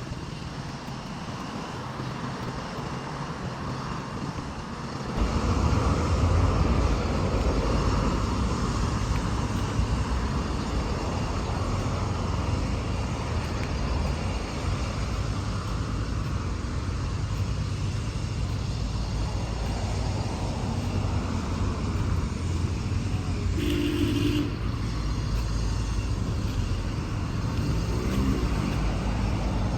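Street traffic noise: a steady rumble of passing cars that grows louder about five seconds in, with a brief higher tone about two-thirds of the way through.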